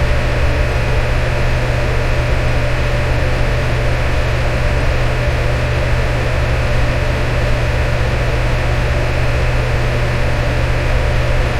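Electric fan running steadily: an even rush of air with a strong low hum and a faint steady tone, unchanging throughout.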